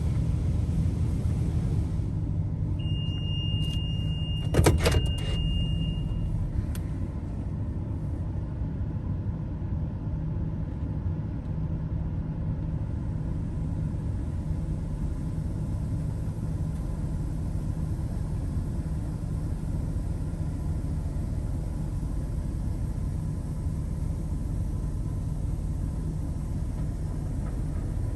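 Steady low rumble of an idling car. From about three to six seconds in, a high steady beep sounds, with a sharp click in the middle of it.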